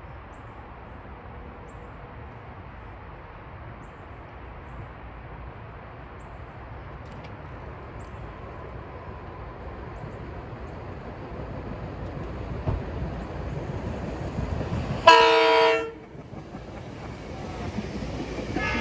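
SEPTA Regional Rail electric multiple-unit train approaching: the low rumble of its wheels on the rails grows steadily louder, broken about two-thirds of the way in by a single loud horn blast lasting about a second. Near the end the train begins to pass close by.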